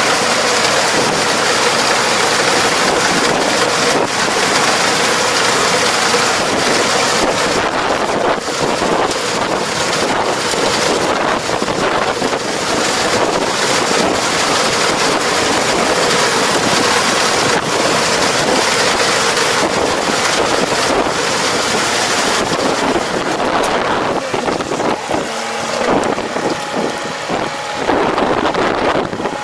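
A large engine-driven machine running steadily under load, a loud, even rush of engine and working noise. Near the end the noise eases and wavers, and a few steady tones show through.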